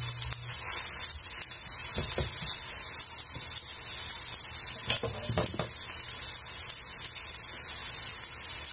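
Cauliflower sizzling as it sautés in a nonstick frying pan, stirred with a spatula.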